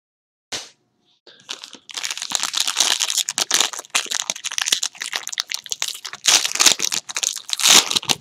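Plastic wrapper of a trading-card pack crinkling as it is handled and opened: a single tap about half a second in, then a dense, continuous crackle.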